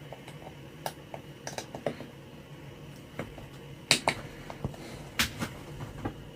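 Sharp clicks and light taps, about eight of them scattered irregularly, the loudest about four and five seconds in: small transistors and test gear being handled while they are set up to be checked on a component tester.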